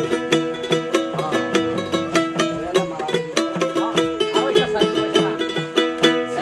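A plucked string instrument strummed in a steady rhythm, several strokes a second, with chords ringing between the strokes.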